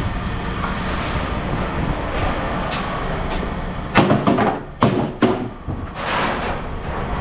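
A steady engine running, then, about four seconds in, a few loud sharp clanks and a short rattle of scrap metal being thrown down.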